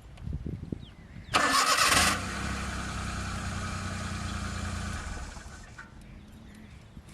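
Car engine being cranked, catching with a loud burst about a second and a half in, then running steadily for about three seconds before it stops.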